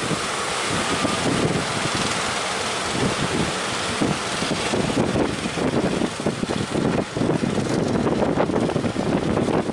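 Strong wind buffeting the microphone over a steady rushing of wind and waves. The buffeting grows more ragged and gusty in the second half.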